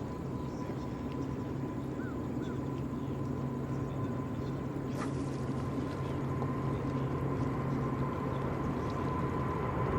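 Distant jet airliner engines, a steady low rumble with a thin whine, slowly growing louder as the aircraft nears. A couple of faint bird chirps come about two seconds in.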